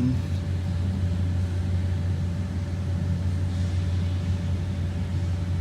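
Steady low machine hum with a faint, constant higher whine above it.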